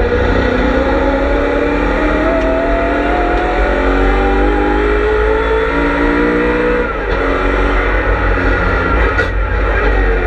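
BMW M3 E92's V8 engine under hard acceleration at racing speed, heard from on board. Its pitch climbs steadily through a gear for about seven seconds, dips at an upshift, then climbs again.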